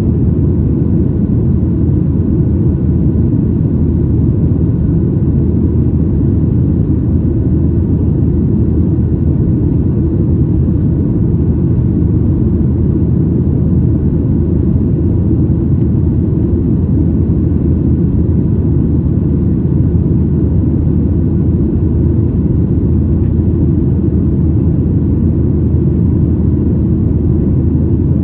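Boeing 737-900ER's CFM56-7B turbofan engines and airflow heard from inside the cabin: a steady, loud low rumble that does not change.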